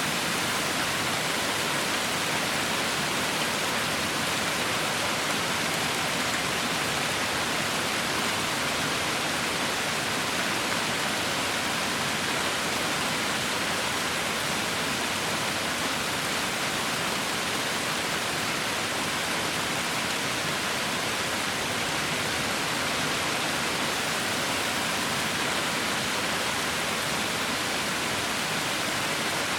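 Heavy rain falling steadily: an even, unbroken hiss with no single drops, thunder or other events standing out.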